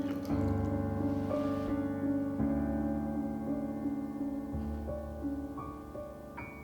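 Background piano music: soft held notes struck one after another, fading out toward the end.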